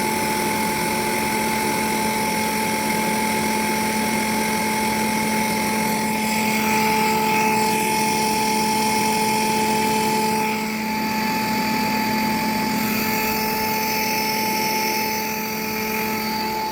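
CNC lathe running and machining a metal part: a steady mechanical whine with a broad hiss of cutting, which changes about six seconds in and again around ten seconds as the cut changes.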